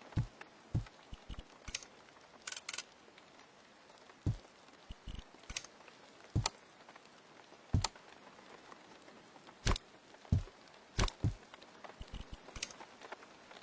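Irregular knocks, taps and clicks, some deep and some sharp, spaced unevenly about a second apart.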